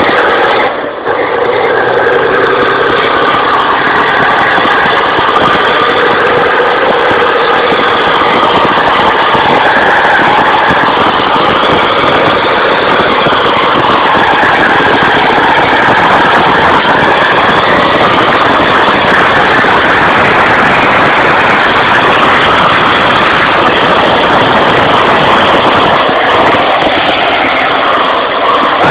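Tractor engine running hard and loud, its pitch wavering up and down with the throttle, with a brief drop about a second in.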